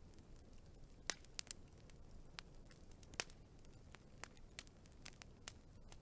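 Wood fire burning quietly: irregular sharp crackles and pops over a low, soft rumble, the loudest pops about a second in and again about three seconds in.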